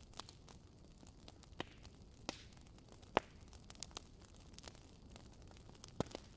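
Wood fire burning in a fireplace, crackling: scattered sharp pops and snaps over a low steady hiss, the loudest pop about three seconds in and another near the end.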